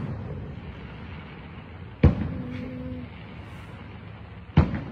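Two aerial firework bangs about two and a half seconds apart, each a sharp boom with a rumbling, echoing tail.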